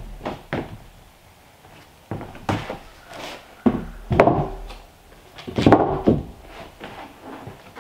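A run of wooden thunks and knocks at irregular intervals, the loudest about four seconds in and a cluster around six seconds in.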